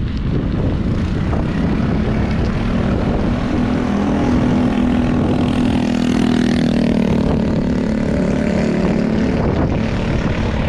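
A motor vehicle's engine passing close by, its pitch dropping as it goes past, over heavy wind buffeting the microphone.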